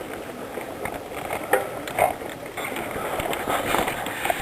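Riding noise from a moving bicycle: a steady rushing noise, with a few sharp clicks and rattles about one and a half and two seconds in.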